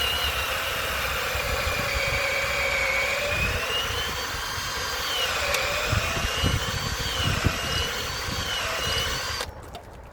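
Electric drill running under load while boring into timber, its motor pitch dipping and recovering as the bit bites, then cutting off suddenly near the end.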